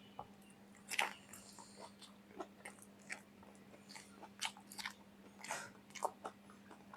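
Raw vegetables being bitten and chewed with a crisp crunch: a sharp bite about a second in, then irregular crunches of chewing.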